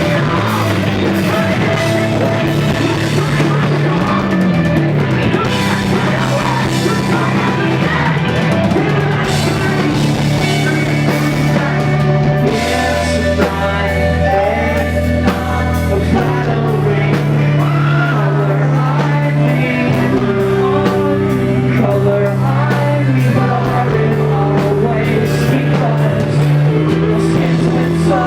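A post-hardcore rock band playing live, loud and unbroken: drum kit, electric guitars and bass under a sung vocal line, with the bass notes shifting every few seconds.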